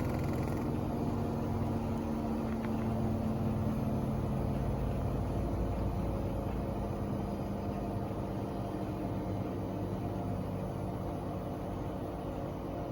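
Hoover Axi washing machine on its final high-speed spin: a steady mechanical hum and rumble from the motor and drum with several held tones, getting slowly a little quieter.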